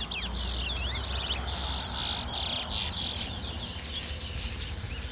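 Caged towa towa (chestnut-bellied seed finch) singing: a quick string of whistled slurs and rapid buzzy, chattering phrases for about three seconds, then softer notes. In the singing race each song is counted toward the bird's tally.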